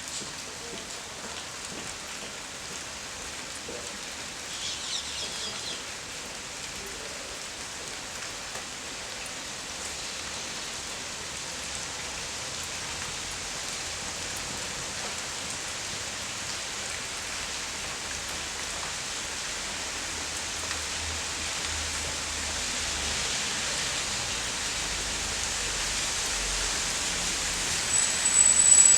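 Steady hiss of falling rain, swelling gradually over the last several seconds, with a few faint high chirps about four to five seconds in and a short high thin tone near the end.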